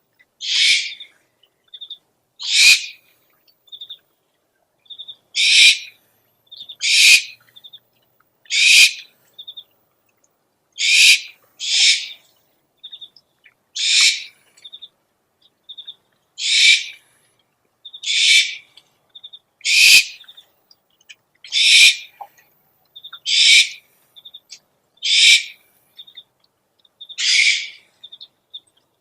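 Owl lure recording: an owl giving harsh, hissing screech calls, each about half a second long, repeated roughly every second and a half, with short faint chirping clicks in between.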